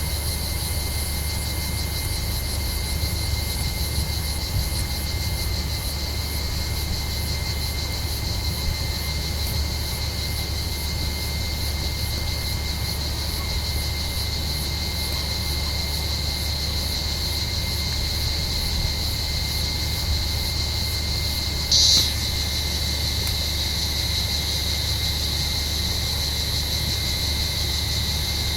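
A chorus of cicadas drones steadily, high and fast-pulsing. One cicada buzzes louder and closer for about half a second roughly three-quarters of the way through. A steady low rumble runs underneath.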